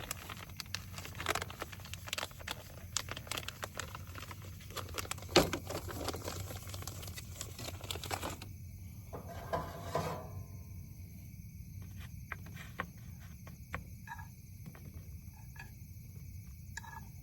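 Food-preparation handling noises: a dense run of clicks, taps and crinkles with one sharp knock about five seconds in. The noises thin out after about eight seconds, leaving a few soft knocks.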